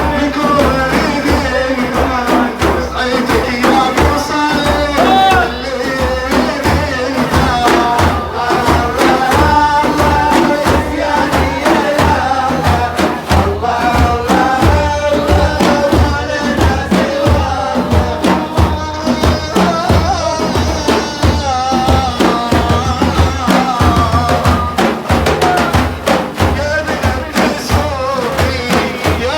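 Male voice singing a Sufi devotional praise song to the Prophet, with long, wavering held notes over a fast, steady beat of hand drums.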